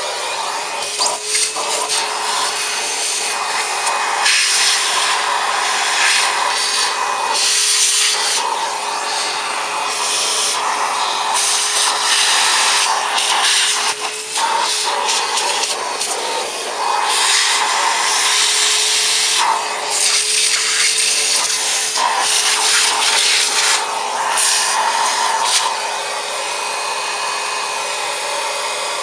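A vacuum cleaner running with its crevice tool, vacuuming out dust: a steady motor whine under a rushing suction noise that swells and dips as the nozzle is moved about. It eases off a little near the end.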